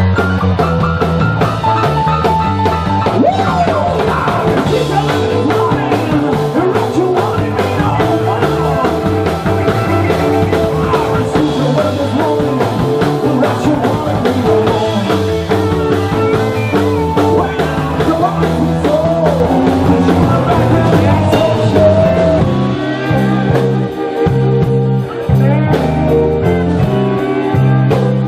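Blues-rock band playing live, electric guitar over bass and drums, with bent guitar notes.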